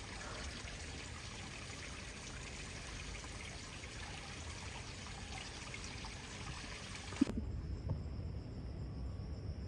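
A steady trickling noise like running water. About seven seconds in it changes abruptly to a duller, lower rumble with a few soft knocks.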